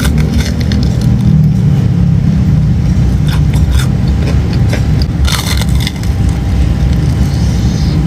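Close-miked chewing and crunching of a fried, mozzarella-filled Korean corn dog, with a few sharper crunches around the middle.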